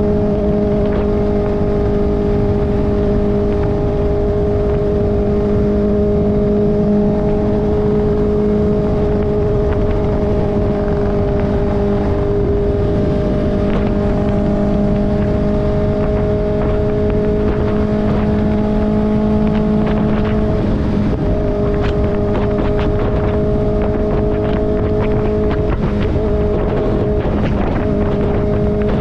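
Kawasaki ZX-4RR's inline-four engine running through an SC-Project slip-on exhaust, held at steady revs while the bike is ridden, with a brief waver in pitch about three-quarters of the way through.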